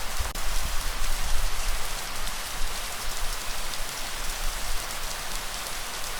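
Steady rain falling, with scattered individual drops ticking through it. A low rumble stands out in the first couple of seconds, then eases.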